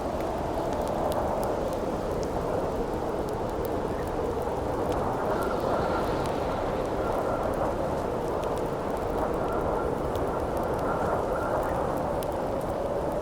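Howling wind blowing steadily, with a campfire crackling over it in many small sharp pops and snaps. A faint whistle in the wind comes and goes through the middle.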